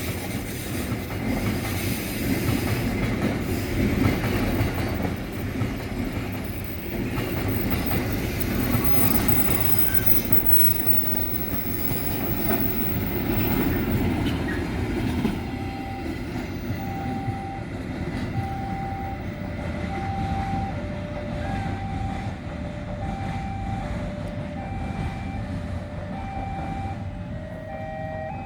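Train running, a dense rumble of wheels on the track with some higher squeal. From about halfway, a repeating two-tone electronic alarm sounds over it, alternating between a higher and a lower pitch about once a second.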